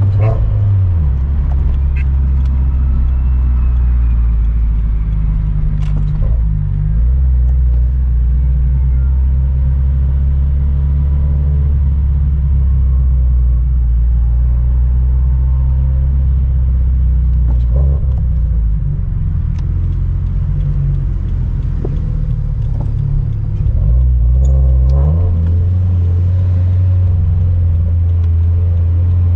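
Turbocharged flat-four sports-car engine heard from inside a moving car, a loud steady low drone at cruise. Its pitch steps down and back up a few times.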